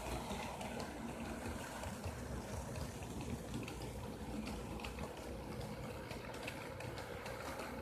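Faint steady low rumbling noise with a light constant hum.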